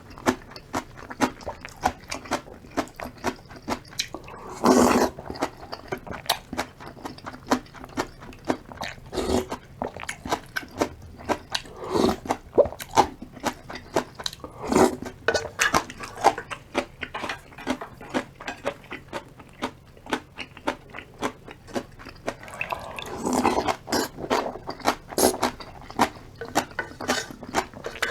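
Close-miked eating of instant ramen and kimchi: constant wet chewing and crunching clicks, with a few louder, longer sounds about five seconds in and again near the end.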